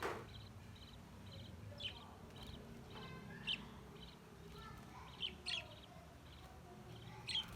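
Young budgerigar chicks chirping: a string of soft, high, short calls, with a few louder sharp cheeps about two, three and a half, five and a half and seven and a half seconds in.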